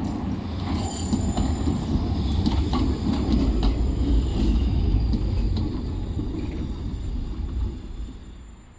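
Tram passing: a low rumble with scattered clicks of the wheels over rail joints and a brief high wheel squeal about a second in, fading away near the end.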